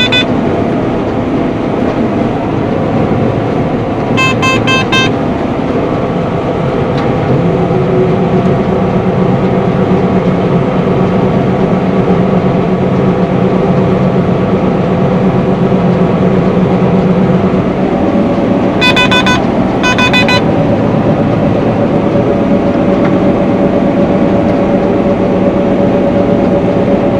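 Combine harvester running steadily under load, a loud even hum with a low drone that gets a little stronger about seven seconds in. Short bursts of rapid electronic beeping from the cab's warning beeper sound once about four seconds in and twice close together around nineteen to twenty seconds.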